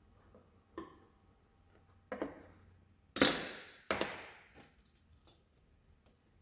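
A handful of sharp knocks from wooden workpieces being handled in joinery work: a light one, a stronger one, then the two loudest about a second apart in the middle, followed by a couple of light clicks.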